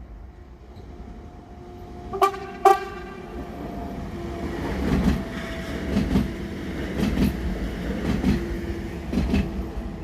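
A train sounds two short horn blasts, then passes close by, its wheels clattering over the rail joints in a steady rhythm of thumps about once a second under a constant hum.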